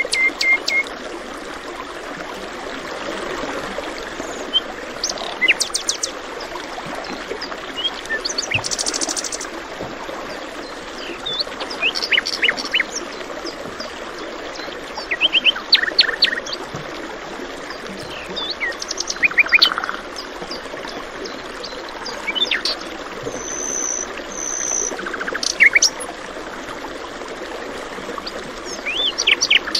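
Songbirds chirping and calling in short bursts every few seconds, including a rapid trill, over the steady rush of flowing water from a stream.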